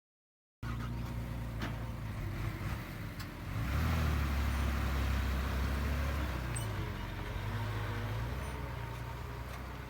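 Heavy diesel earthmoving machinery running after a brief moment of silence. The engine revs up about three and a half seconds in, holds under load, then eases back somewhat, with a few faint knocks.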